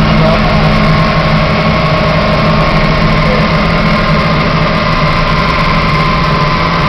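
Volkswagen Voyage's engine running steadily on a dynamometer, loud and even with no change in speed.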